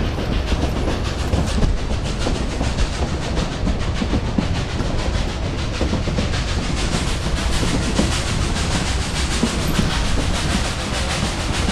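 Cumbres & Toltec narrow-gauge train rolling along the track, heard from its open gondola car: a steady rumble with the rattle and clickety-clack of the wheels and car.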